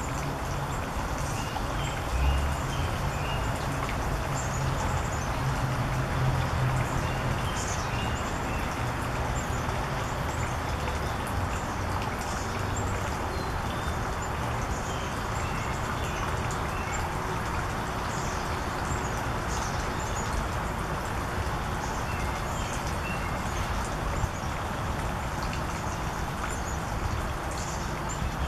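Small birds giving short, high chirps, scattered throughout, over a steady outdoor hiss. A low hum runs under them for roughly the first dozen seconds.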